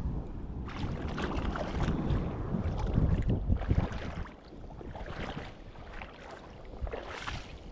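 Wind rumbling and buffeting on the microphone, louder for the first half and then easing.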